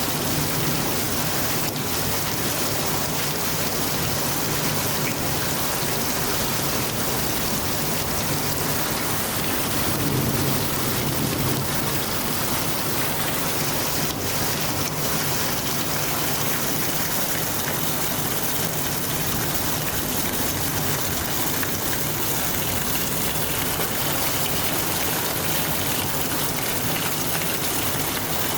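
Heavy rain pouring down in a steady, dense hiss. A low rumble swells briefly about ten seconds in.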